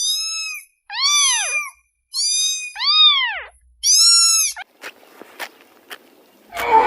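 A kitten meowing five times in quick succession, high-pitched calls with some rising and falling in pitch. Near the end a cow's moo begins.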